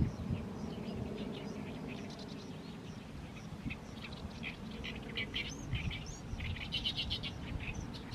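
Oriental reed warbler singing its harsh, chattering song: phrases of rapid repeated notes, loudest about seven seconds in, over a low rumble.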